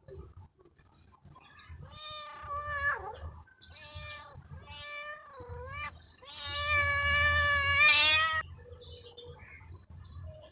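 A cat meowing: three drawn-out meows, the first ending in a downward slide, the second wavering, and the last, about two seconds long, the loudest and held at a steady pitch.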